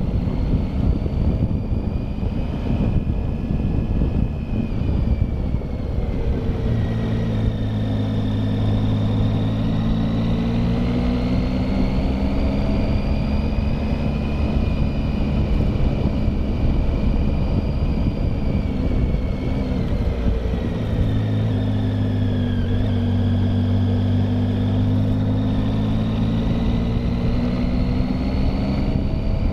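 Triumph Tiger motorcycle engine running under way, its pitch slowly rising and falling as the revs change, over a steady low wind rumble on the microphone.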